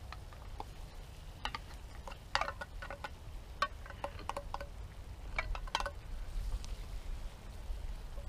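Metal utensil clinking and scraping against a metal pan and can while beans are added to a stew, a quick run of light clinks with short ringing that stops about six seconds in.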